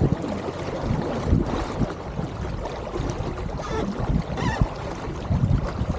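Water washing along the hull of an Elliott 7.4 sailing keelboat under way, with wind buffeting the microphone in gusty low rumbles and a few short knocks.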